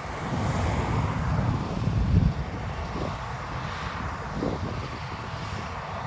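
Diesel engine of harvest machinery running steadily, growing louder about two seconds in and then easing back.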